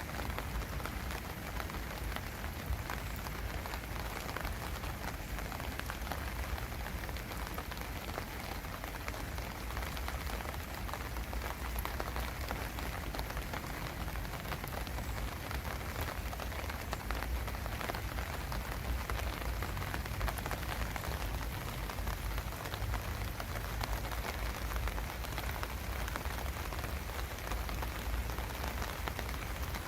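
Steady rain falling, with many individual drops pattering throughout.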